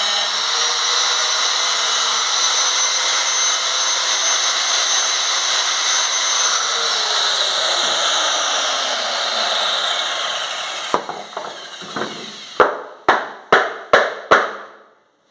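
Power tool cutting a plastic bucket, a steady whirring noise that winds down over a few seconds. Then about six sharp knocks come roughly half a second apart.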